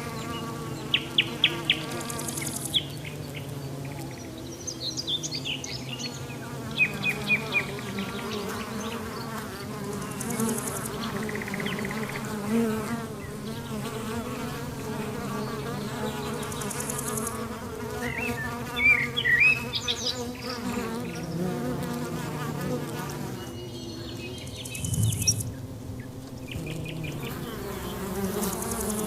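Flying insects buzzing, several overlapping drones that waver in pitch, with short bursts of bird chirps a few times.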